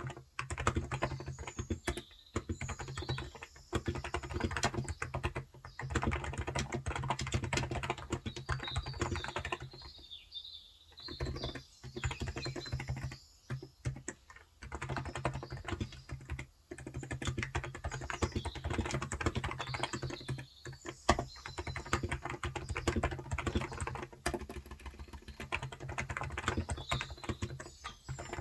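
Typing on a Cox Endeavor electro-capacitive (Topre-style) keyboard with 35 g switches: fast runs of soft keystrokes broken by short pauses, the longest about ten seconds in. Birds chirp faintly in the background.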